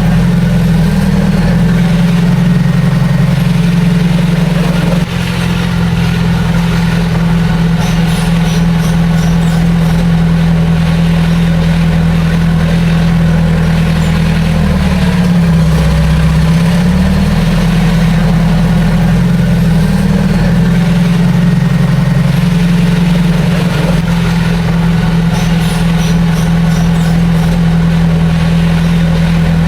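Heavy diesel engine of earthmoving machinery running steadily. Its pitch dips briefly about halfway through as the engine slows under load, then comes back up.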